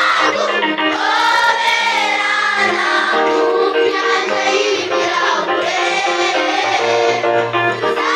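Children's choir singing a worship song together, with steady keyboard chords underneath.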